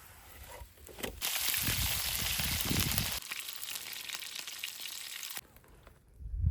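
Cutlets sizzling as they fry in a pan: a dense hiss that starts about a second in and cuts off suddenly near the end.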